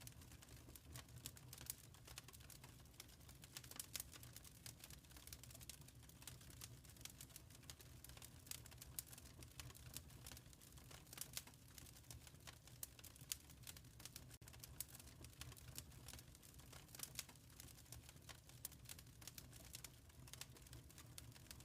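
Wood fire crackling quietly: irregular small pops and snaps over a low steady hum.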